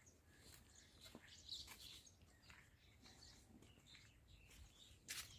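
Faint bird chirps over quiet background noise, with one short sharp click near the end.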